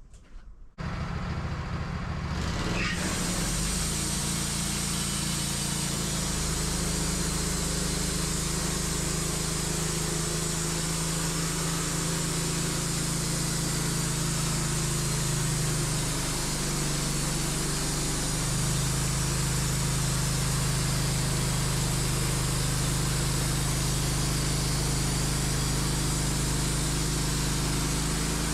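Wood-Mizer LT15 sawmill running under load: the engine comes up suddenly about a second in, then runs steadily with a hiss of the band blade cutting through a black cherry log. The engine note shifts briefly a little past the middle.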